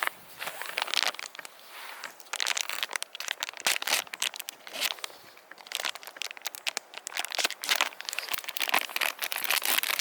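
Irregular rustling and crinkling of fabric or plastic being handled, in quick uneven bursts.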